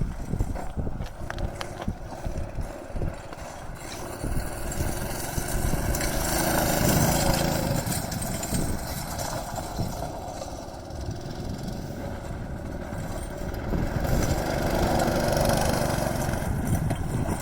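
Motorized drift trike's small engine running, growing louder in two stretches, about six seconds in and again near the end.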